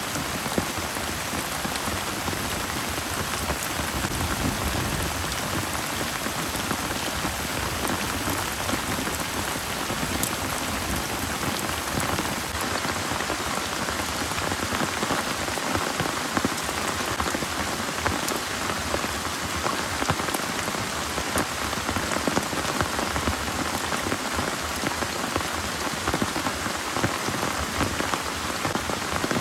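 Heavy rain pouring steadily, an even dense hiss of drops hitting a surface with scattered sharper drop hits.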